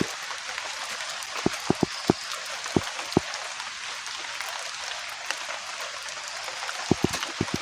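Steady rain falling, with a few louder drips landing close by: a cluster of them about a second and a half in and a few more near the end.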